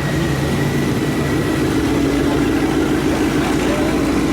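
A car engine running steadily at a low, even pitch.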